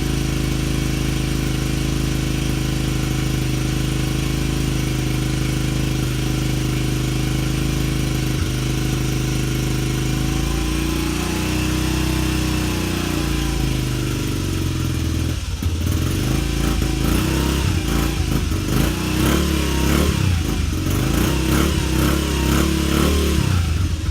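2007 Honda CRF70F's small single-cylinder four-stroke engine idling steadily while warming up after a cold start. About ten seconds in it is revved once up and back down, and from about halfway on the throttle is blipped repeatedly in quick revs.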